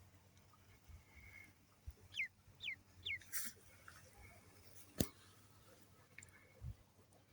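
Ducklings peeping: three quick downward-sliding peeps about two seconds in, among faint pecking knocks. A short hiss follows, and a single sharp click about five seconds in is the loudest sound.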